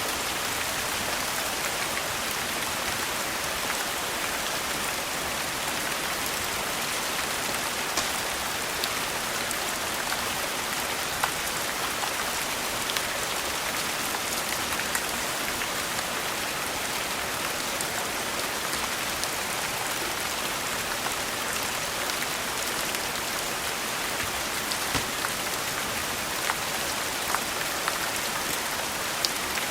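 Steady rain hissing evenly, with scattered sharp pops from a crackling wood fire.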